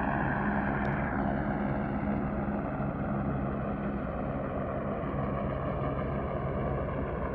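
A boat engine running steadily, a low even hum with a broad wash of noise over it that eases slightly about a second in.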